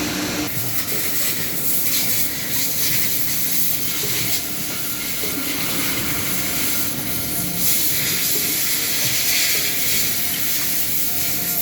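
Industrial automated production line running: a steady machine hiss with faint hums underneath, swelling and easing slightly.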